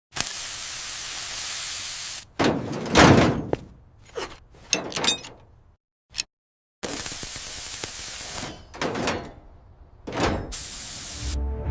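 Edited cartoon sound effects: stretches of steady hiss cut off abruptly, alternating with thuds and several sweeping swooshes, with brief dead silences between them.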